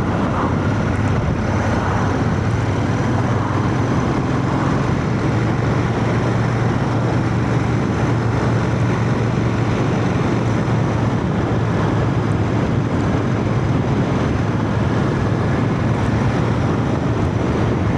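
Royal Enfield Shotgun 650's parallel-twin engine running at a steady cruise, with wind and road noise, heard through a microphone inside a full-face helmet.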